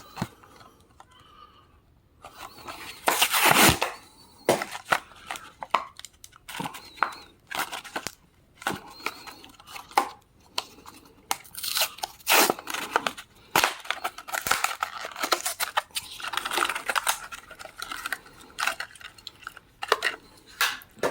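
Matchbox die-cast car's cardboard and plastic blister packaging being torn open, with irregular crinkling and crackling that starts about two seconds in.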